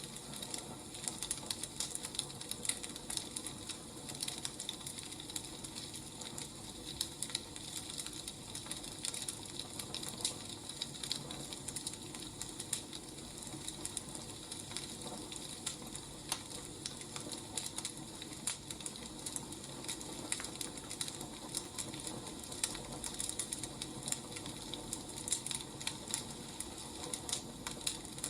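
Wood fire crackling, with a steady soft hiss and irregular small pops and snaps throughout.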